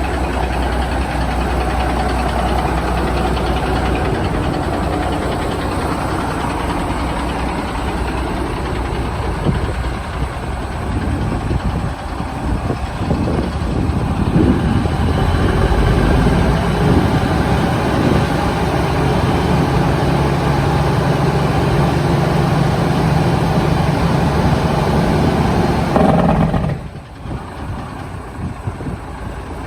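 Diesel engine of a 1974 Kenworth W900 running loud through straight-pipe stacks with the mufflers removed. The sound changes character about 12 seconds in, holds a steady low tone for several seconds, then drops off sharply near the end.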